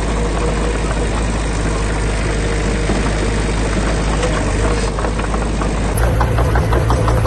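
Heavy diesel engine of a construction machine running steadily with a knocking clatter. The sound changes abruptly about six seconds in, and the clatter becomes more distinct.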